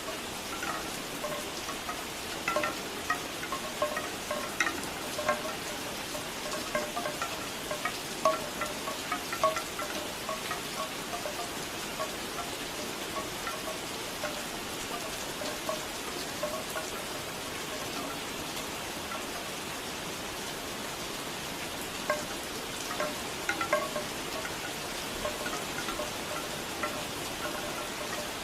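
Steady rain with bamboo wind chimes clacking in loose clusters of hollow wooden knocks, busy in the first third, thinning to near nothing in the middle, and picking up again near the end.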